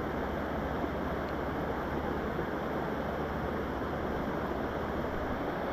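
Steady rush of river current, an even noise with no breaks.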